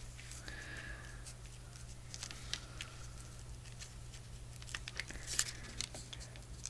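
Quiet paper handling: faint rustles and small clicks of paper cutouts being picked up and moved about on a paper tag, over a low steady hum.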